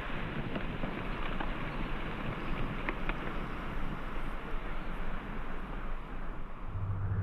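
Steady outdoor wind noise with a low rumble. Music comes in near the end.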